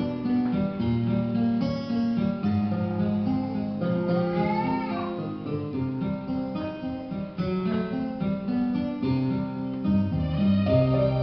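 Music played on an acoustic guitar, strummed and plucked.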